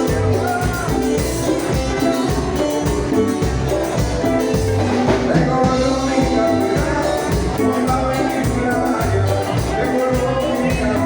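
Band playing Latin dance music with a steady bass beat and melody lines over it.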